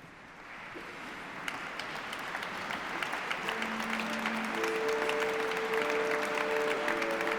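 Crowd applause fading up from quiet and growing steadily louder, with held musical notes sounding underneath from about halfway through.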